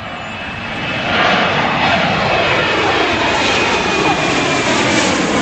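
Jet engines of a Boeing 737 going past at close range: a dense roar that swells over the first second, then holds loud and steady with a faint high whine on top.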